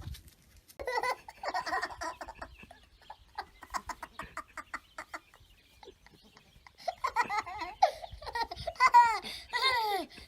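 High-pitched laughing in bursts, quieter early on, then louder rising-and-falling peals from about seven seconds in.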